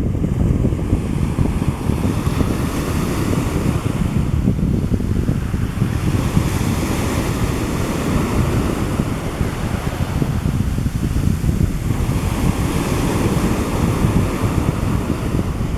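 Wind buffeting the microphone with a steady low rumble, over the wash of sea waves that swells a few times.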